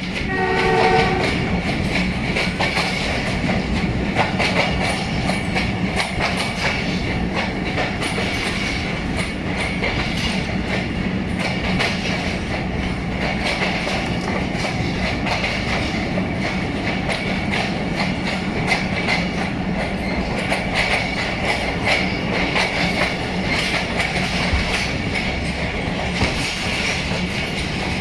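ZCU 20 diesel locomotive's horn sounding one short chord about a second long at the start. After it, the passenger train runs on with a steady rumble and dense clicking and clatter of wheels over the rails.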